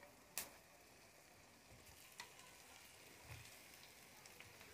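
Faint sizzling of spiced masala frying on a low flame in an iron kadhai, with a few light knocks of the steel spatula on the pan, the loudest about half a second in.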